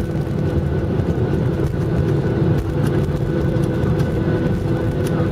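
Airliner cabin noise while taxiing after landing: a steady rumble from the jet engines at idle, with a few constant whining tones over it.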